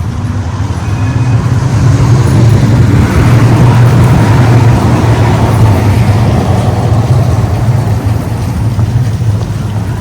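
A road vehicle passing close by: a loud low rumble that builds over the first few seconds, peaks near the middle and slowly fades.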